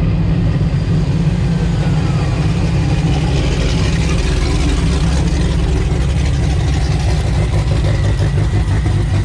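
Car engine idling close by, a steady low rumble.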